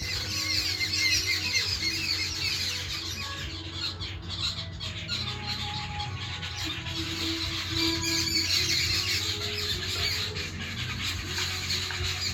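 A flock of birds squabbling: a dense, continuous chatter of short, high squeals and squawks, typical of birds fighting over territory, over a steady low hum.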